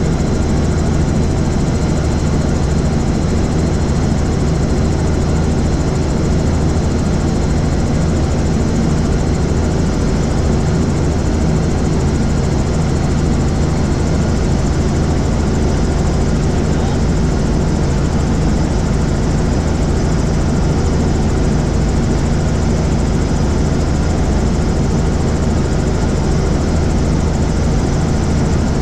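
Helicopter in flight: steady drone of the rotor and engine.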